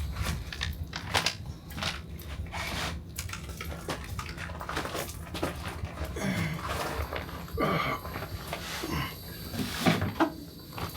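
Scattered light clicks and knocks of tools and fittings being handled, with a few short squeaky sounds around the middle.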